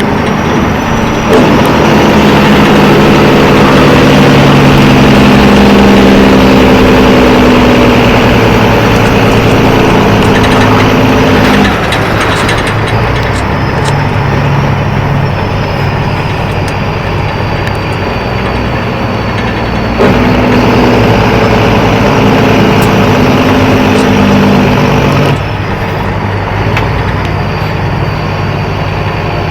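Heavy diesel engine running hard in two long loud stretches, each easing off suddenly to a lower running note.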